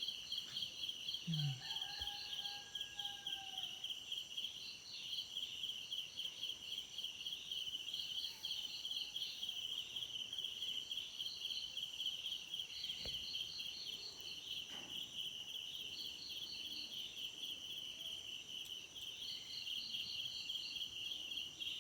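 Crickets chirping in a steady, rapidly pulsing chorus, with extra trills starting and stopping over it. A faint short tone sounds under the chorus about a second in.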